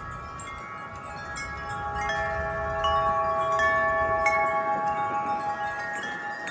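Wind chimes ringing in the wind. Several sustained tones are struck at irregular moments and overlap, growing louder about two seconds in, over a low rumble of wind.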